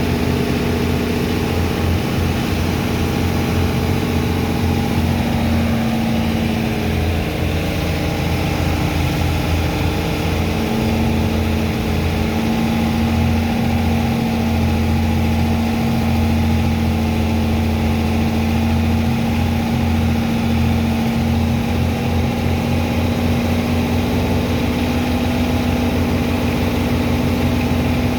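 Engine of a sand-unloading dredger pump machine running steadily, with a heavy low throb and a constant hum that dips briefly about seven seconds in and then returns.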